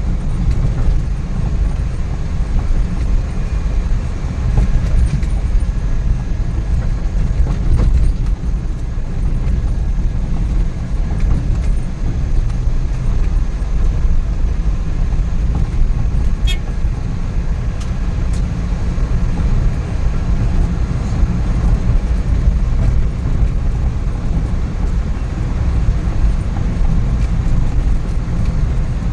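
Suzuki Every DA64V van on the move, its freshly rebuilt K6A three-cylinder engine running steadily under a constant drone of engine and road noise.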